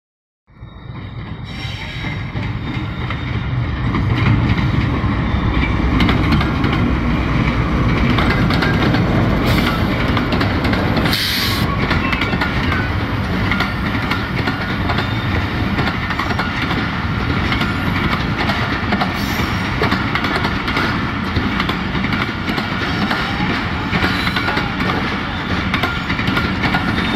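A diesel-hauled passenger train passes close by. The locomotive's rumble builds over the first few seconds as it approaches, then settles into a steady run of coaches rolling past, their wheels clattering over the rail joints.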